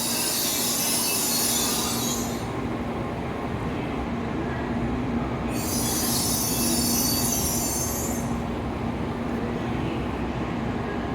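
N700A Shinkansen train starting to pull out of the platform: a steady electric hum runs throughout, with two spells of high hissing, each lasting a couple of seconds.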